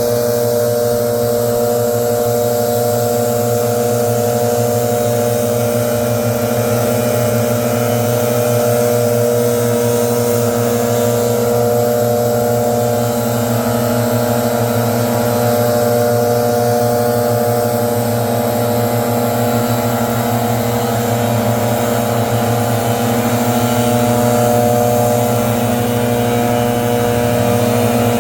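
Leaf blower running steadily.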